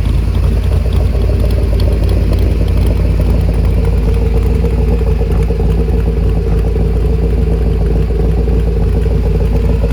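A 427 side-oiler Ford FE V8 idling steadily.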